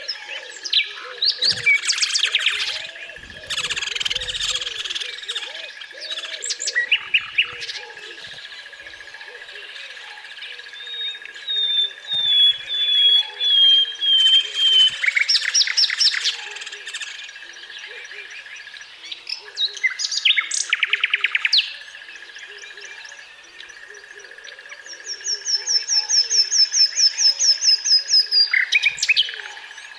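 Several birds singing and calling in turn: chirps, a run of falling notes, quick trills, and near the end a long series of rapid repeated notes, over a steady faint high tone.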